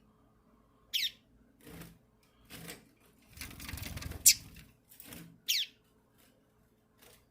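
Two short, sharp bird calls, each sliding down in pitch, about a second in and again about five and a half seconds in. Between them come light knocks and scrapes on the cage wire and a rustling stretch with one sharp click.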